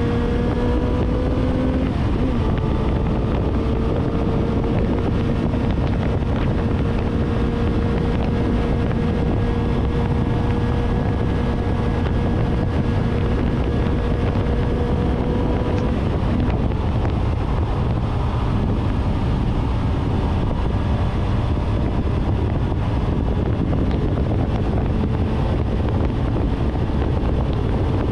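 Suzuki GSR750's inline-four with a full 4-into-1 aftermarket exhaust, riding at a steady cruise. The engine note rises in the first two seconds, breaks briefly, then holds steady until about halfway through, when it sinks under wind rush on the microphone; it comes back near the end.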